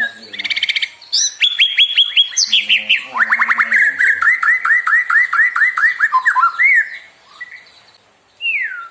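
White-rumped shama singing. A short buzzy rattle is followed by a quick run of high notes, then a long series of repeated down-slurred whistles at about four a second. After a brief lull, a single falling whistle comes near the end.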